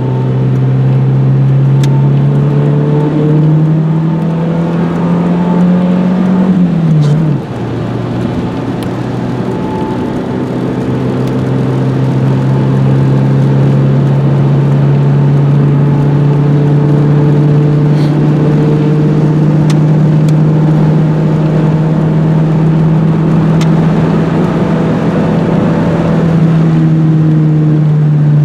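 Renault 21 GTS's 1.7-litre carburetted engine pulling the car along, its note rising slowly. About seven seconds in the note drops sharply, as at a gear change, then climbs steadily again for most of the rest before easing off near the end.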